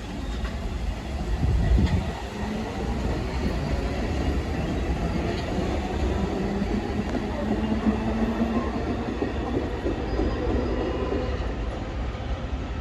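New York City subway train moving through the station, a steady low rumble of wheels on rail with a loud surge about two seconds in and a humming tone for several seconds after.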